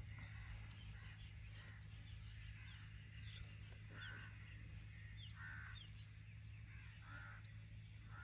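Faint bird calls: several quick falling chirps and a few longer calls, over a low steady hum.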